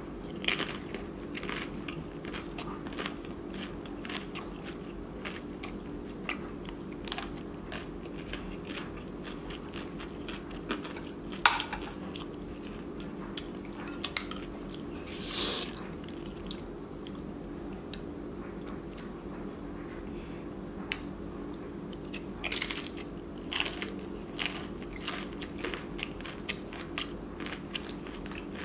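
Close-up eating: a crisp corn tostada topped with crab ceviche bitten and chewed, with irregular crunches, a few of them louder, and wet chewing between. A steady low hum runs underneath.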